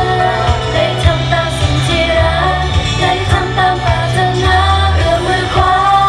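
Thai pop song performed live: a girl group sings the melody over a backing track with bass and a steady drum beat.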